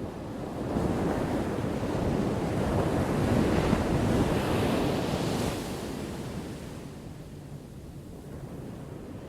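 Ocean waves breaking: one wave swells about a second in, crashes loudest in the middle, and washes back out over the last few seconds.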